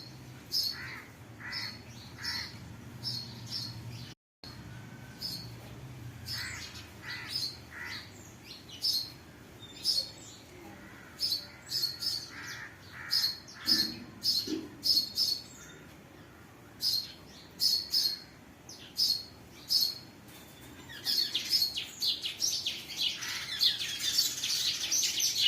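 Birds chirping: short high chirps repeating every half second or so, with some lower notes between, growing into a denser chorus of several birds calling at once near the end.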